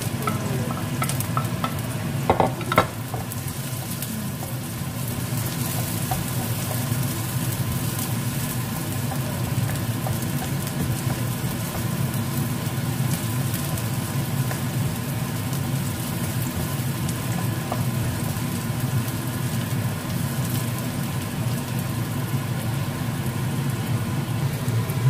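Chopped onion and ginger sizzling in oil in a nonstick frying pan, stirred and scraped with a wooden spoon, over a steady low hum. A couple of sharp knocks come about two and a half seconds in.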